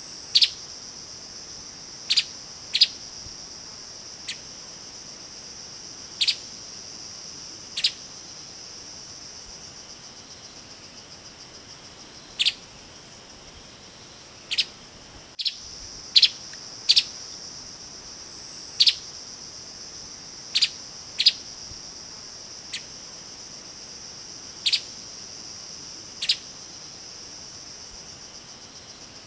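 Streaked spiderhunter giving short, sharp single calls at irregular intervals, roughly one every second or two, over a steady high-pitched insect drone.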